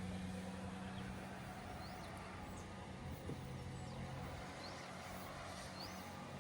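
Diesel engine of the earthmoving machinery running steadily at a low pitch, its note dropping a little about three seconds in. Birds chirp briefly a few times over it.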